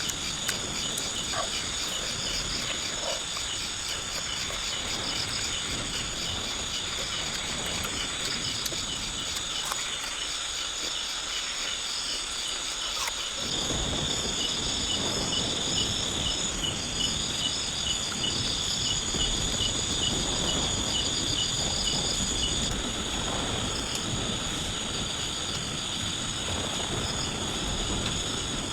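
Rainforest insect chorus: a steady high-pitched buzzing with rows of fast, even chirps layered over it. About halfway through, a louder low noise joins it.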